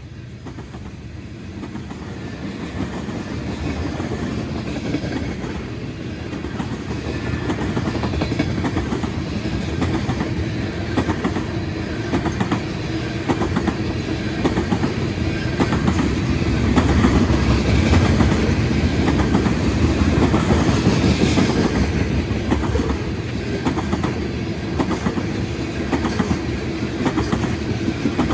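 Freight train rolling past, its wheels clicking in a steady rhythm over the rail joints under a heavy rumble. It grows louder over the first half and is loudest about two-thirds through.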